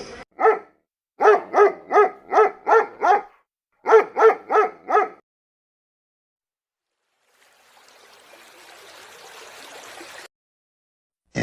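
A dog barking in two quick runs of about three barks a second, then falling quiet. Later a faint hiss swells for about three seconds and cuts off.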